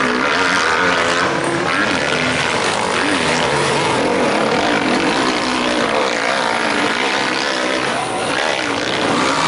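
Several motocross bike engines racing at once, their revs rising and falling as the riders accelerate and shift.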